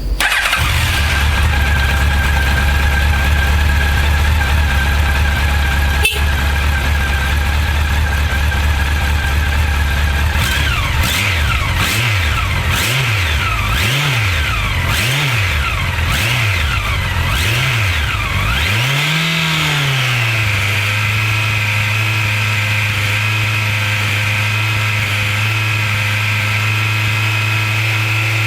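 2003 Honda X4 LD's 1284 cc inline-four with its original exhaust, running at a steady idle, then blipped up and down in about six quick revs and one longer rev, before settling back to a steady, slightly faster idle.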